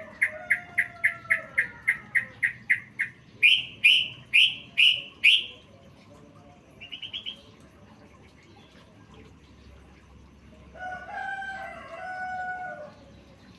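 Yellow-vented bulbul (trucukan) song as used for training songbirds, packed with learned mimicked phrases: a quick run of about a dozen even notes, then five louder, higher notes, a brief trill about seven seconds in, and a scratchy chattering phrase near the end.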